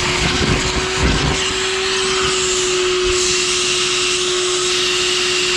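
Vacuum cleaner with a small nozzle fitted, running steadily with a constant whine as it cleans out a car trunk, with a few low knocks about a second in.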